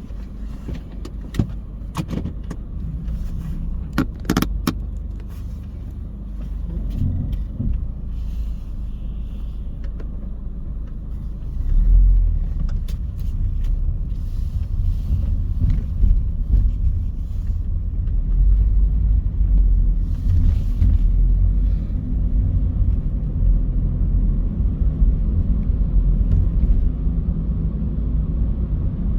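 Car driving, with steady low engine and road rumble that grows louder about twelve seconds in as the car picks up speed. A few sharp clicks sound in the first few seconds.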